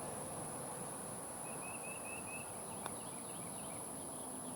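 Outdoor insect drone, a steady high-pitched whine, with a short run of quick chirps about one and a half seconds in and a faint click about three seconds in.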